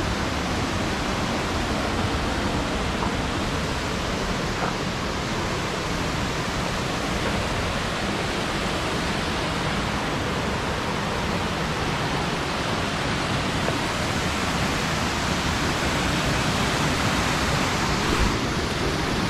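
Waterfall: cascading water giving a steady, even rush with no break.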